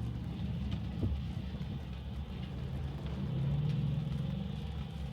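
Low, steady road and tyre rumble of a Tesla driving on wet pavement, heard from inside the cabin, swelling for a moment about three and a half seconds in, with a few faint ticks.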